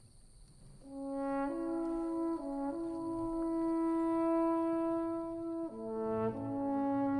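Soundtrack music on brass: a slow melody of long held horn-like notes that comes in about a second in and steps to a new pitch every one to three seconds.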